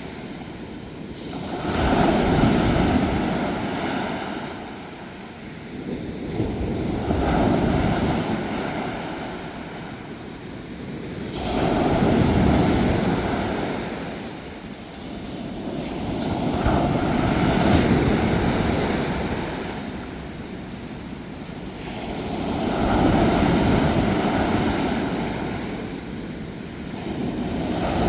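Ocean waves surging in and washing back, each swell rising and fading about every five seconds.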